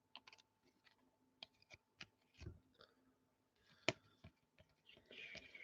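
Faint clicks and light rustling of trading cards being handled and flipped through by hand, with one sharper click about four seconds in.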